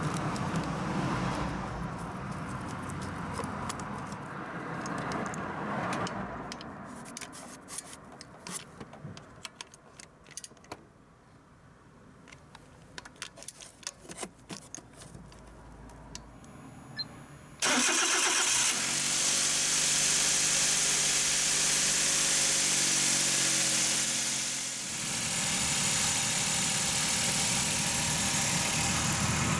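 Suzuki K6A 660 cc three-cylinder engine, freshly fitted with new iridium spark plugs, starting about two-thirds of the way through and settling straight into a steady idle, with a brief dip about two seconds from the end. Before it start there are light clicks and handling noises.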